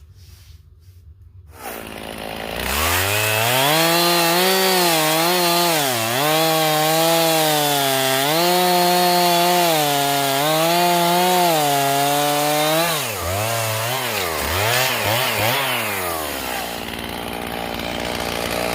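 Chainsaw revving up about two seconds in and running near full throttle, its pitch sagging several times under load as it cuts wood. Near the end there are a few quick revs before it drops back toward idle.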